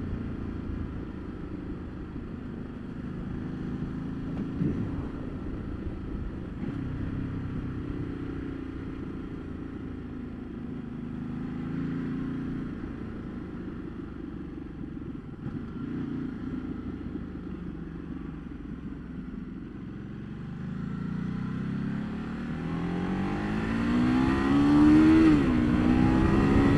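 Ducati Multistrada 1200's 1198 cc V-twin running at road speed under wind and road noise. In the last several seconds it accelerates hard: the revs climb, dip briefly at a gear change and climb again as it gets louder.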